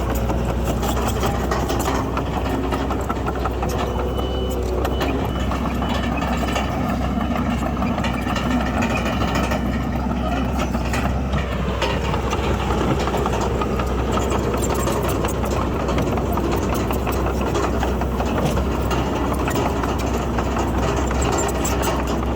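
Diesel engine of heavy earthmoving machinery, a crawler bulldozer working with dump trucks, running steadily at a constant level.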